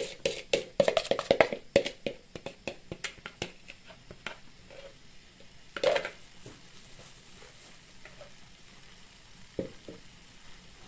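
Marinated chicken pieces just dropped into a little hot oil in a frying pan, crackling and spitting densely for the first few seconds, then thinning to a faint sizzle. One louder knock about six seconds in.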